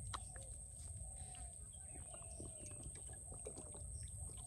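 Faint outdoor ambience: a steady low rumble and a steady high-pitched tone, with scattered short bird calls and light clicks.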